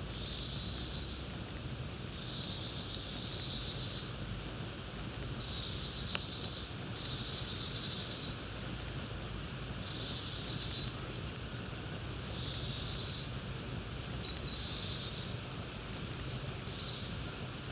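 Campfire crackling over a steady hiss, with scattered sharp pops, the loudest about six seconds in. A short high trill repeats about every two seconds in the background.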